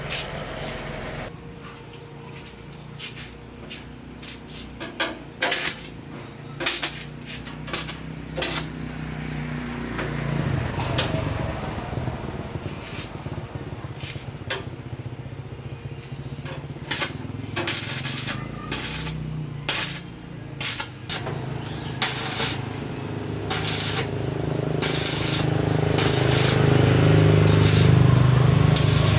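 Repeated sharp metallic knocks and clinks of tools on metal parts, over a steady low motor hum that grows louder over the last few seconds.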